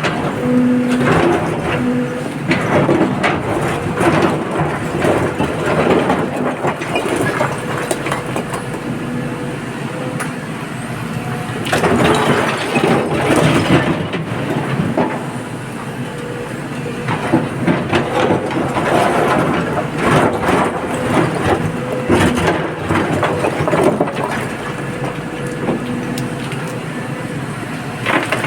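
Excavator engine running steadily under repeated irregular knocks and clatter of rock being loaded, as when a bucket load is dropped into a tipper truck's steel bed.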